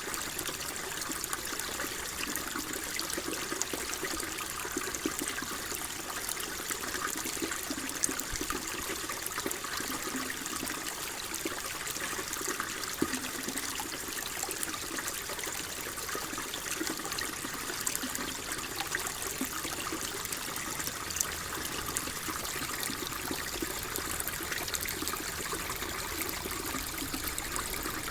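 Water flowing and trickling steadily, an even rushing hiss with faint small splashes scattered through it.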